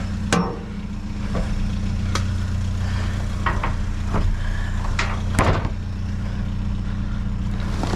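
A vehicle engine idling steadily, with several sharp knocks and clanks scattered over it.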